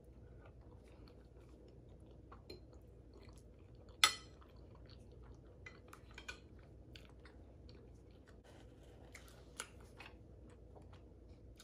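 A person chewing a mouthful of lasagna, with many small mouth clicks. About four seconds in comes one sharp clink, a metal fork against the ceramic plate, and a few lighter taps follow.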